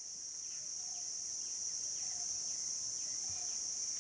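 Steady high-pitched insect chorus, fading in and swelling slightly over the first second, with faint short lower calls repeating about once a second.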